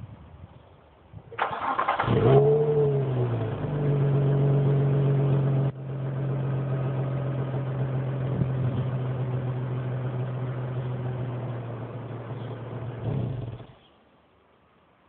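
Nissan 350Z's 3.5-litre V6 on its standard exhaust, cranked by the starter and catching about two seconds in. It flares briefly, then settles to a steady idle, and the sound stops suddenly near the end.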